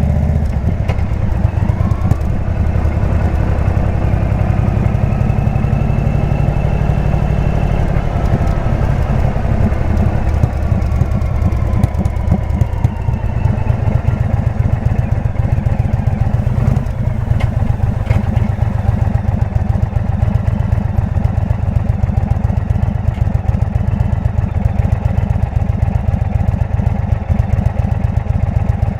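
Indian V-twin motorcycle engine running through a Jekill & Hyde exhaust, with a steady, rapid low pulsing. Its pitch rises and falls gently a few times in the first half.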